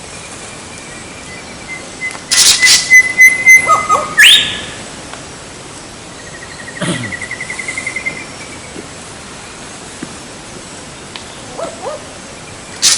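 Bird calls: a cluster of loud, harsh calls with a high whistled note and a quick upward sweep about two seconds in, then a fast trilled call about seven seconds in, and a few faint short calls near the end.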